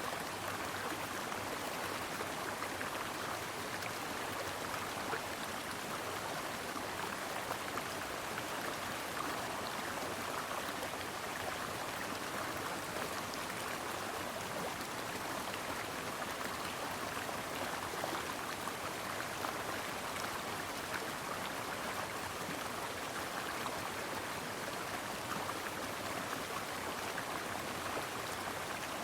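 A brook running steadily over stones, a continuous even rush of water with fine splashing and babbling.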